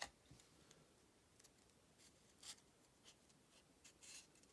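Faint scraping and rustling of trading cards being slid against each other by hand as stuck cards are worked apart: a few brief scrapes, the clearest about two and a half seconds in and again near the end.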